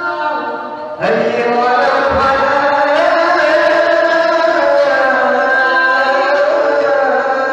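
A voice singing long, drawn-out notes in a chant-like style, each held for seconds with slow wavering pitch; a new note begins about a second in after a brief dip.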